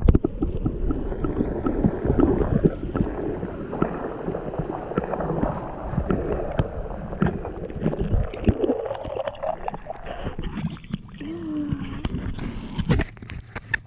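Muffled water sloshing and gurgling, crowded with many small knocks and rubbing sounds.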